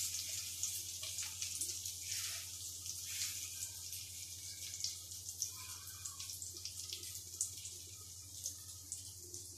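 Egg omelette frying in ghee on a flat griddle (tawa): a steady sizzling hiss with small crackles and pops.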